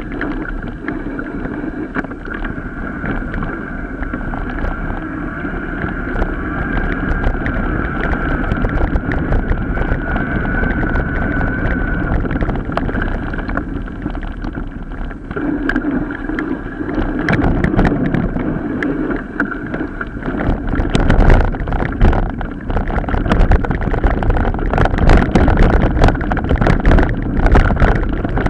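Mountain bike ridden off-road, with wind buffeting the microphone and a steady tyre rumble. The bike rattles and clatters over rough ground, with more and sharper knocks in the second half.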